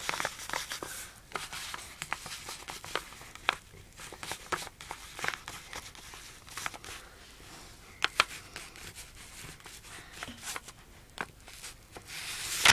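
Paper rustling and crinkling in short, scattered bursts as a letter and its envelope are handled, with light clicks and taps between. The handling is louder near the end.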